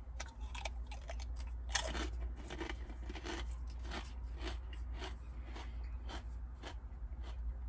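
Crunching and chewing a crisp fortune cookie, about three crunches a second.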